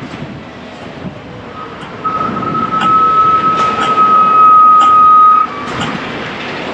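A single steady electronic tone sounds for about three and a half seconds, starting about two seconds in and cutting off suddenly, over constant street and wind noise with a few sharp clicks.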